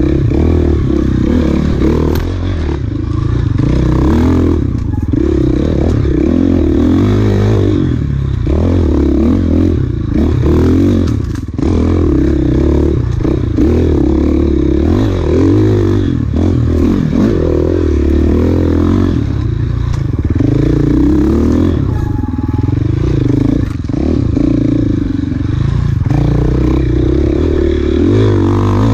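Enduro dirt bike engine revving up and down continuously as it is ridden hard over rough ground, with clattering and scraping from the bike.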